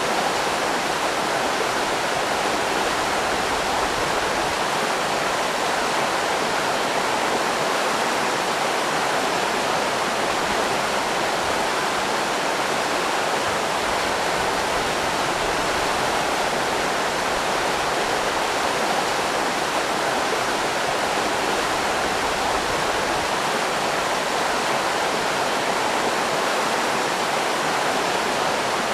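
River rapids rushing steadily, an even, continuous sound of running water.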